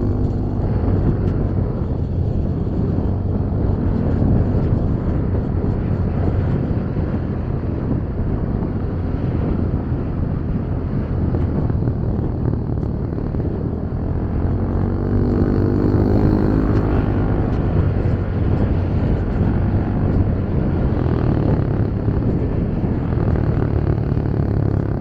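Motorcycle taxi riding at road speed: the engine's steady low hum under heavy wind rush on the microphone. About fifteen seconds in, another engine note rises and falls for a couple of seconds.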